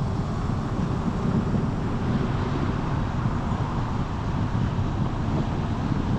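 Steady rumble of a car driving along a road, with tyre and engine noise and wind buffeting the microphone.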